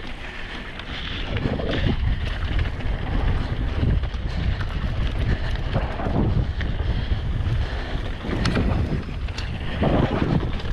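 Wind buffeting the microphone over the rolling rumble of mountain bike tyres on a dry, dusty dirt trail, with a few faint clicks and rattles from the bike.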